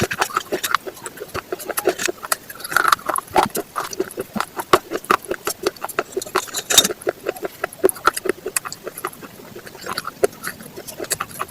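Raw vegetables being chewed with continuous crunching: quick, irregular crisp crunches, several a second.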